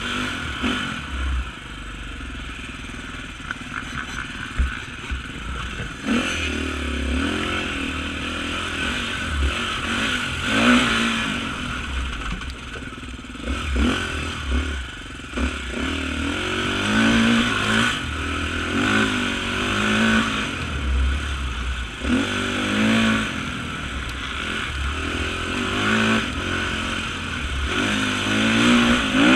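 Off-road motorcycle engine revving up and down over and over through the throttle, with clatter and knocks mixed in.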